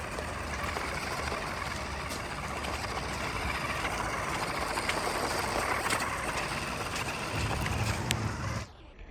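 Steady hissing and splashing of water as a small RC rock crawler drives through it in the rain, with a few sharp clicks and a low rumble near the end, cutting off suddenly just before the end.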